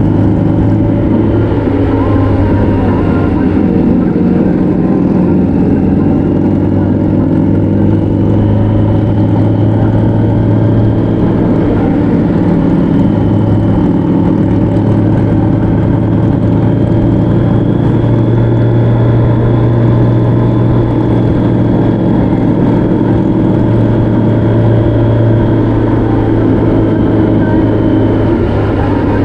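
Vehicle engine running steadily at cruising speed, recorded onboard, with a constant rush of wind and road noise. The engine's pitch shifts only slightly, with no hard revving.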